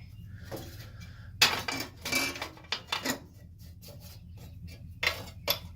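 Metal tools clinking and clattering as they are handled and rummaged through, with a run of sharp clanks about one and a half to three seconds in and two more about five seconds in, over a steady low hum.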